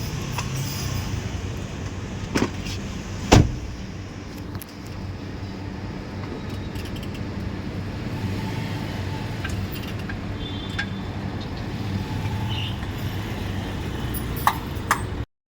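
Steady low rumble of a running motor vehicle, with two sharp knocks about two and three seconds in (the second the loudest) and a few clicks near the end.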